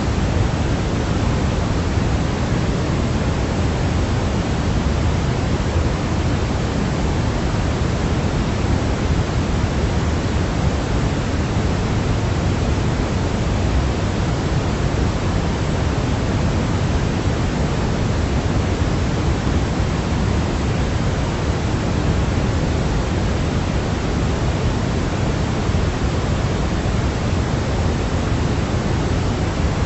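Steady synthetic sleep noise for babies: a constant, even hiss with no changes or events, heavier in the low rumble than in the highs, like pink noise.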